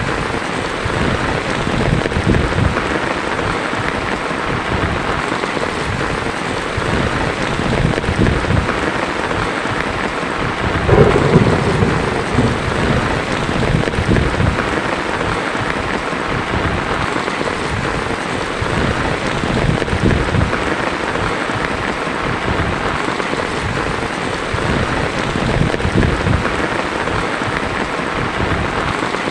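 Heavy rain falling steadily on a tin roof, with a louder roll of thunder about eleven seconds in.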